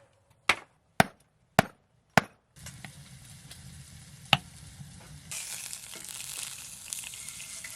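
A knife chopping four times on a cutting board, about two strokes a second, then pork frying in a hot pan: a steady sizzle that starts after about two and a half seconds and grows louder about five seconds in.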